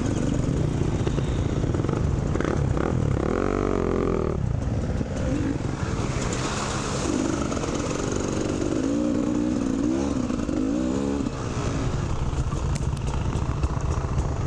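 Two-stroke dirt bike engine being ridden hard on a trail, its pitch rising and falling as the throttle is opened and closed, most clearly a few seconds in and again through the middle.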